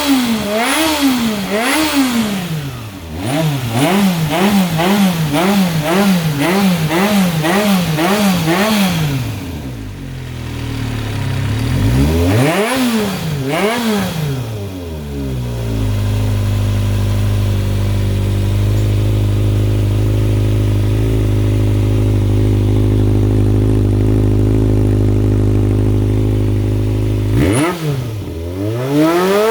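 Honda CBX400F air-cooled inline-four revving through an RPM 67 aftermarket exhaust with its optional baffle fitted. It is blipped up and down about twice a second for the first several seconds, then given one bigger rev, then held at a steady engine speed for about ten seconds before being revved again near the end.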